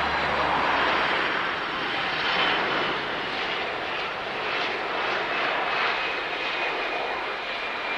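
Boeing 747-400's four Pratt & Whitney PW4056 turbofans on landing: a steady jet rush with a faint high whine that falls slightly in pitch as the airliner passes.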